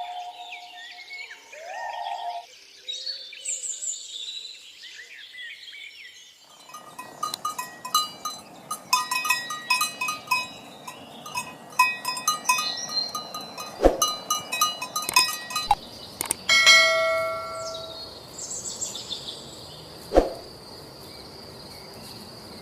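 Small birds chirping for the first few seconds, then an irregular jangle of clanking metal bells that runs to the end, with a couple of sharper knocks.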